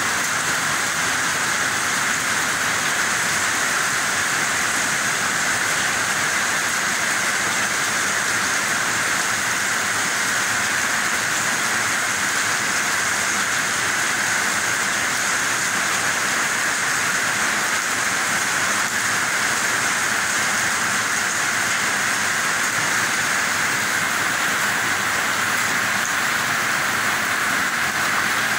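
Heavy rain pouring down steadily, splashing into puddles and standing water on the ground.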